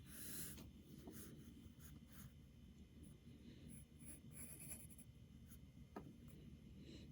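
Faint pencil lead scratching on drawing paper in a series of short strokes, with one sharp tick about six seconds in.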